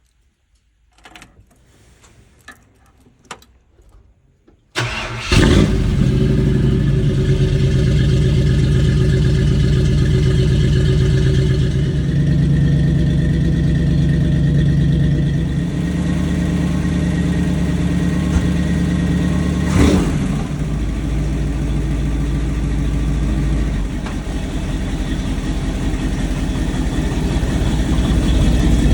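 A few faint clicks, then about five seconds in the Ford 400 V8 of a 1960 Ford F100, fitted with 3-inch headers and Flowmaster exhaust, starts abruptly and settles into a steady loud idle. There is one brief louder moment about twenty seconds in.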